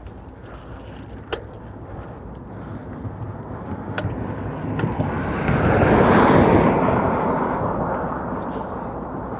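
A motor vehicle passing by: a rushing noise that swells to a peak about six seconds in and then slowly fades, with a couple of sharp clicks before it.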